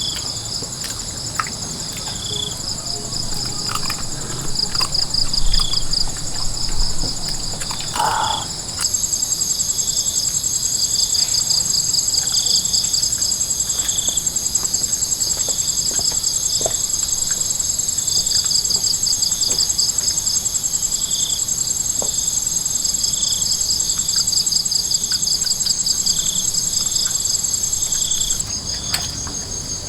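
Dense chorus of insects chirring in several high, rapidly pulsing bands, with short repeated chirps beneath. The chorus grows louder about a third of the way in and eases near the end.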